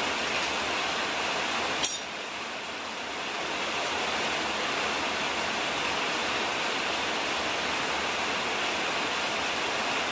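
Steady hiss, with one sharp click a little under two seconds in.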